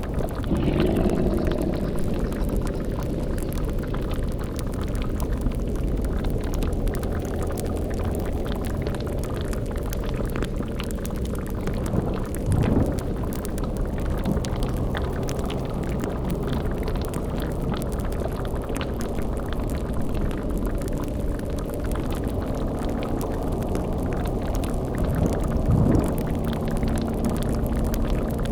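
Dark ambience mix: a bubbling boiling cauldron over a steady low rumbling drone. Three brief low swells rise out of it: about a second in, midway, and near the end.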